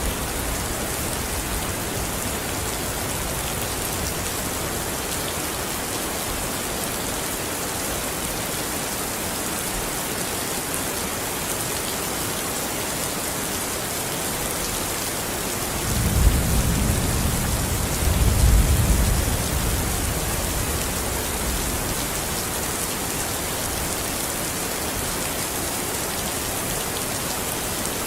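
Steady heavy rain falling, an even hiss throughout. About sixteen seconds in, a low roll of thunder rumbles up, peaks a couple of seconds later and dies away over the next few seconds.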